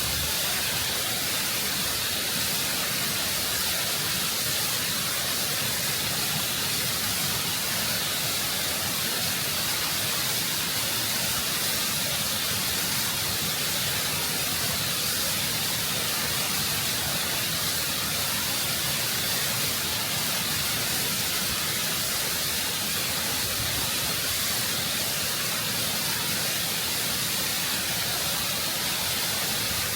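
Waterfall rushing and cascading over rock, heard close up: a constant, full roar of water with a strong hiss of spray.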